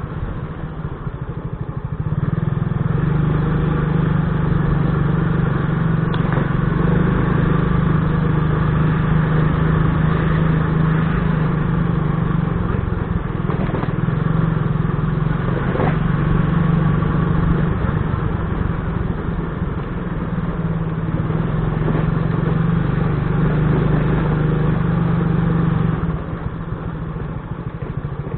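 Motorcycle engine running steadily while riding, louder from about two seconds in and easing off near the end.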